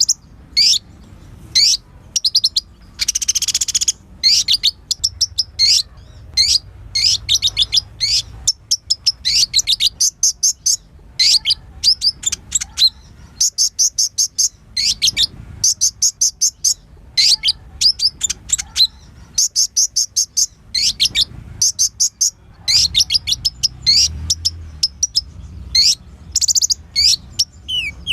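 Kolibri ninja sunbird singing a fast, high-pitched song of quick chirps and trills, broken by a few short buzzy notes. It is a full, varied lure song of the kind played to make a kept sunbird excited and answer.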